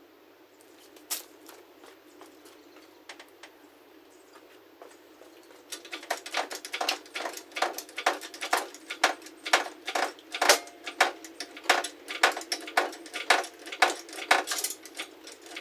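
Metallic clinking and clicking in a quick, even rhythm of about two to three strokes a second. It starts about six seconds in, after a few faint scattered clicks.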